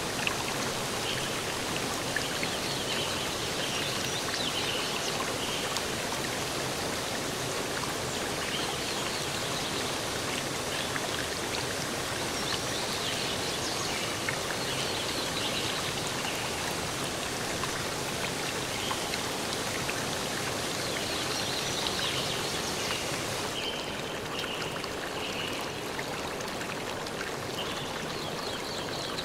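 Steady rushing water of a stream flowing; the sound turns slightly duller near the end.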